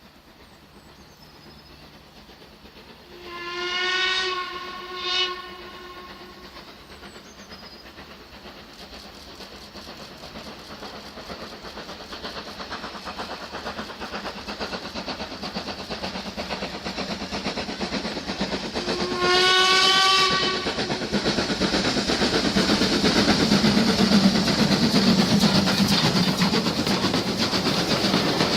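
Steam locomotive whistle, plausibly from Ivatt Class 2MT tank engine No 41241: one long blast with a short pip after it, then a second blast about fifteen seconds later. Between and after the blasts the sound of the running train grows steadily louder as it draws nearer.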